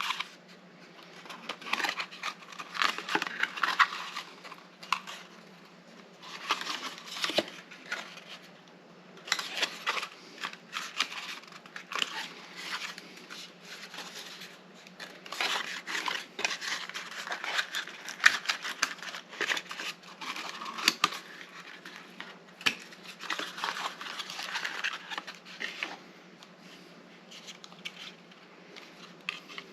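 Hands handling the processor's retail packaging: irregular rustling, scraping and crinkling of cardboard and plastic with scattered light clicks, in bursts separated by short lulls, over a faint steady low hum.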